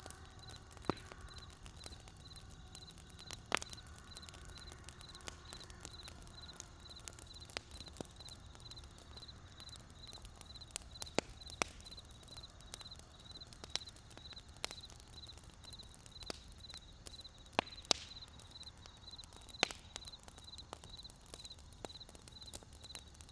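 Wood fire crackling: irregular sharp pops and snaps over a low steady rumble, a few louder snaps standing out. A steady high-pitched pulsing chirp repeats a few times a second behind it.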